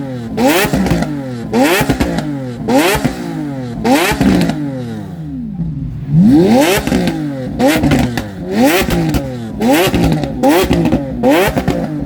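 High-performance sports car engine being revved hard in quick blips, about one a second, each rise in pitch falling straight back, with a short pause about halfway through. Really loud.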